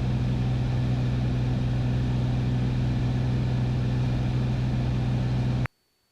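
Beechcraft Bonanza's six-cylinder piston engine and propeller running steadily in cruise, a constant low drone with hiss heard from the cabin; it cuts off suddenly near the end.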